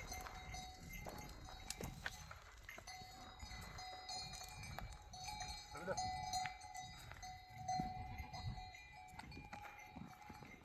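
Bells on a flock of goats and sheep, clinking and ringing unevenly and faintly, with a short bleat about six seconds in.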